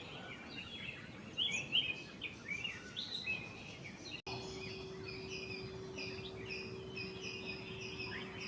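Several small birds chirping and calling in quick, short notes. About halfway the sound breaks off abruptly, and a steady low hum then runs under chirping that repeats more regularly.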